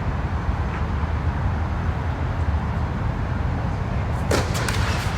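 Steady low outdoor rumble on a tennis court, with a quick cluster of sharp tennis ball knocks about four seconds in.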